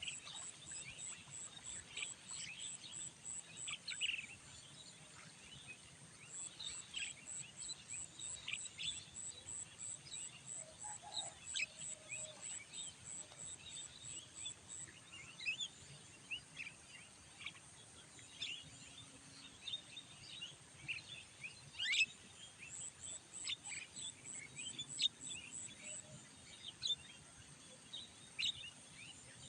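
Birds chirping in short, scattered calls, over a fast, high, even ticking of about five a second that comes and goes in runs of several seconds.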